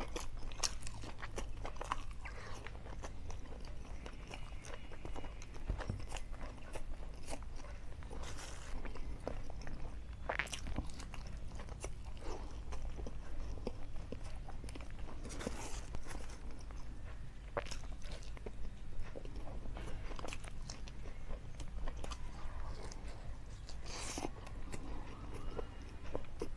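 Close-miked chewing of a mouthful of spicy curried chicken and fried rice: wet mouth sounds with many scattered clicks and a few louder sharp bites.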